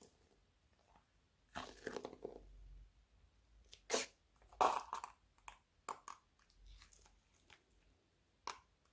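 Slime being squished and mixed by hand, making scattered wet clicks, pops and squelches. The loudest are two sharp pops about four and five seconds in.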